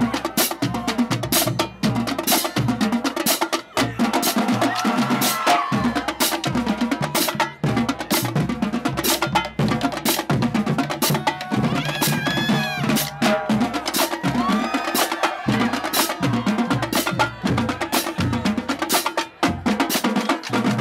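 Marching drumline playing a fast cadence: rapid sharp snare and rim strokes over bass drum hits, with no break.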